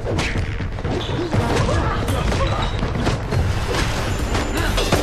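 Hand-to-hand fight sound effects: a rapid run of punches, kicks and thuds with grunts of effort, over background music.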